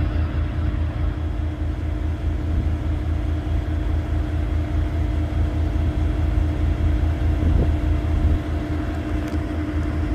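Diesel truck engine idling: a steady low rumble with a fast, even throb and a constant hum over it.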